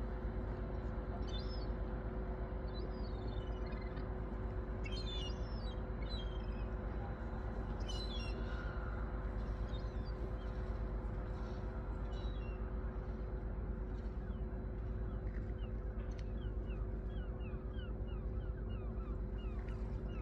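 Small birds chirping in scattered bursts, then a quick run of short falling chirps over the last few seconds, over a steady low mechanical hum with two constant tones.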